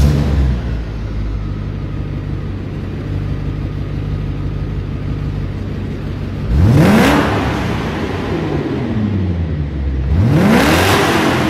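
BMW E34's V8 engine through a custom-made exhaust, flaring just after start-up and settling into a steady idle. It is blipped twice, about six seconds in and again near the end, each rev climbing quickly and dropping back to idle.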